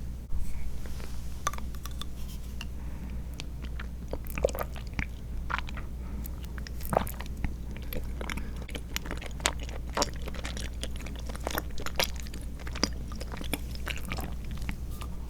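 Close-miked chewing of soft, chewy tapioca pearls and milk jelly, a dense run of wet, sticky mouth clicks and squishes, over a steady low hum.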